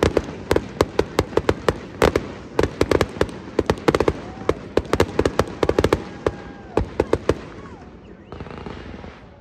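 Aerial fireworks shells bursting overhead with a dense run of rapid crackling pops, several a second, thinning out and fading about seven seconds in.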